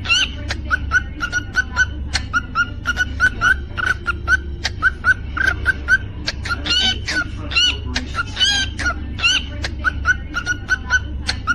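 Cockatiel singing: a rapid run of short whistled chirps, about three a second, broken by a few longer notes that bend up and down.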